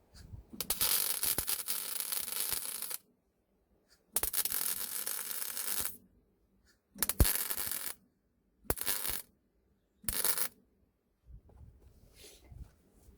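Electric arc welder crackling in five separate bursts: two long welds of about two seconds each, then three short ones, with silence between. This is welding onto a wheel bolt snapped off in the wheel hub so it can be turned out.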